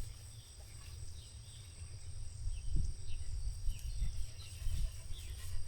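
Outdoor pasture ambience: a steady, high insect trill, with a few faint short bird chirps over a low rumble.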